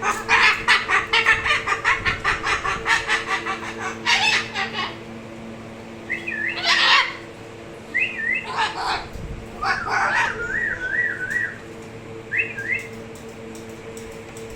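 Moluccan cockatoo laughing in a rapid run of 'hahahaha' bursts, about five a second, for the first five seconds. Then come a few loud single calls and wavering, warbling whistles. A steady low hum runs underneath.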